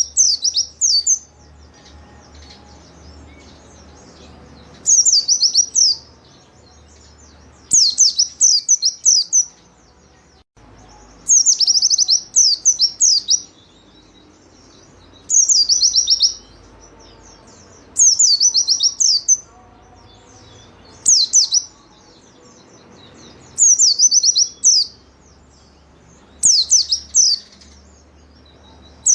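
White-eye (pleci) singing in short, rapid phrases of high, quickly falling notes, each phrase about a second long and repeated every two to three seconds.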